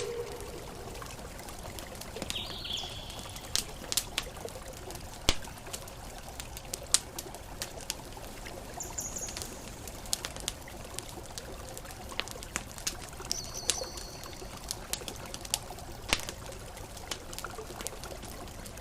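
Campfire crackling, with sharp pops scattered over a steady wash of water. A few short, high bird chirps come through now and then.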